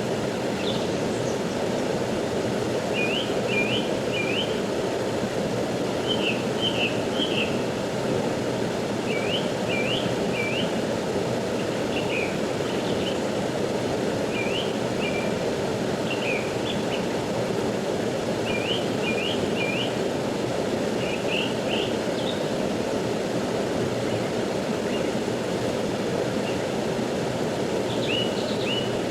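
Rushing stream water flowing steadily. Over it a small bird repeats short high chirps, two to four at a time, every couple of seconds.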